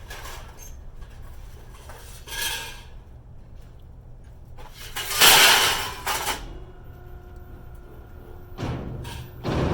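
Pieces of scrap metal being thrown and clanging against other metal. The loudest crash comes about five seconds in and leaves a ringing tone for a couple of seconds.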